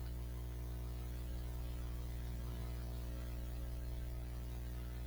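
Steady electrical mains hum with a buzz of many evenly spaced overtones, over a faint hiss.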